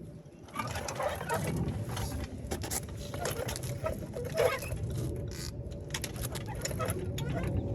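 Hand tools working on the rear hub bolts: irregular metallic clicking, clattering and scraping, starting about half a second in, over a low rumble.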